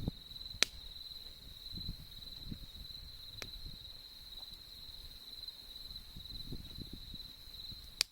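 Autumn insects, crickets, trilling in one steady high unbroken note, over the low flutter of a campfire. The fire pops sharply three times, loudest about half a second in and again near the end.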